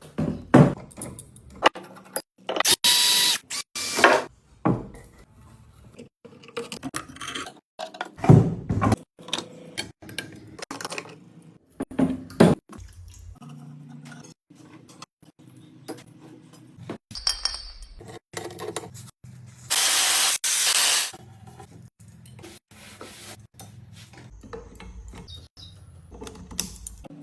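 Restoration work on an old sewing machine in quick edited cuts: clicks and knocks of tools on metal parts, and two loud bursts of about a second each, near the start and about two-thirds of the way in, like a power tool running.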